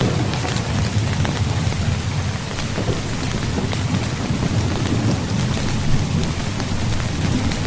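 Rain falling on a tent: a steady hiss of drops with scattered sharp ticks, over a continuous low rumble.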